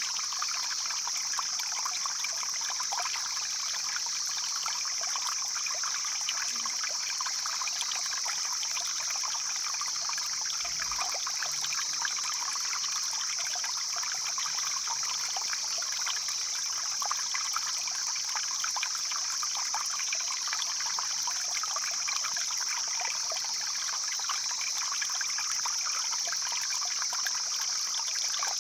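A flowing stream: steady, unbroken rushing and trickling water, with an even high-pitched hiss above it.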